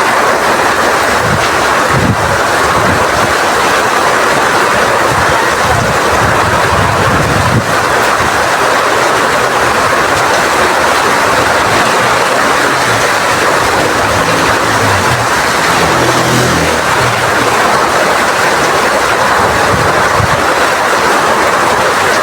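Heavy rain falling steadily in strong wind, a dense, even hiss with gusty low rumbling that comes and goes underneath.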